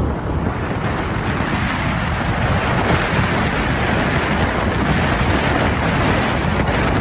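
Steady rushing of wind and road noise from a moving car in a blizzard, with wind buffeting the microphone.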